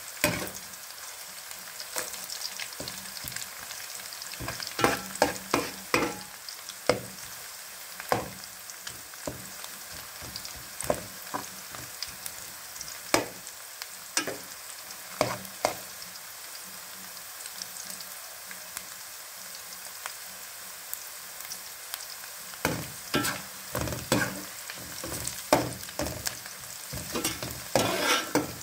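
Onions, green chillies, curry leaves and whole spices sizzling in hot oil in a metal pot. A metal spoon scrapes and knocks against the pot in several spells of stirring.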